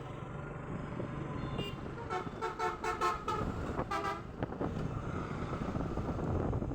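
A vehicle horn honks in a run of short, quick toots for about two seconds, starting about two seconds in, over the steady rumble of engine and road noise on the ride.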